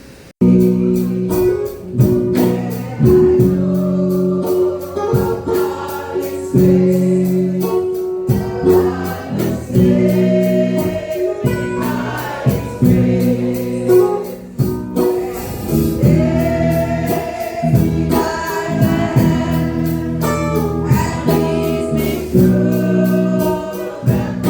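Gospel music: a choir singing held notes over instrumental backing with a steady beat, cutting in abruptly about half a second in.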